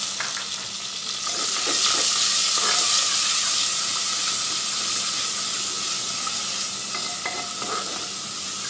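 Fried onions and garlic paste sizzling hard in oil in a clay pot, with a little water just added. A wooden spoon stirs through them, giving a few soft knocks against the pot. The sizzle swells about a second in.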